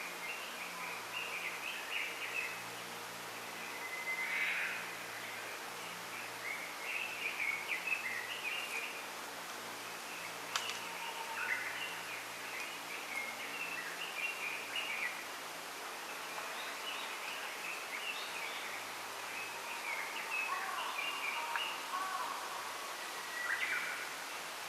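Small songbirds chirping and twittering in short, scattered phrases over a steady background hiss.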